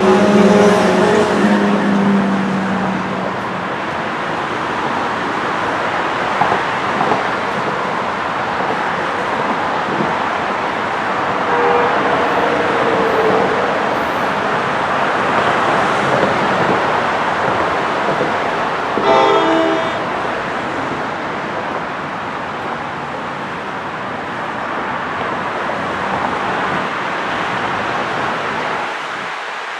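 A train running through the station, with steady wheel-on-rail noise throughout. Its horn sounds for about three seconds at the start, and a short tonal blast follows about 19 seconds in.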